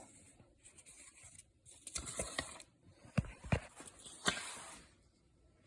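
Handling noises from a plastic table fan being picked up and moved about: rustling with a few sharp clicks and knocks, the loudest a little past the middle.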